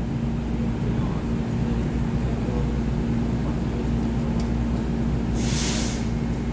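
EMU900 electric commuter train standing at an underground platform: a steady low hum of train and station machinery, with a short hiss about five seconds in.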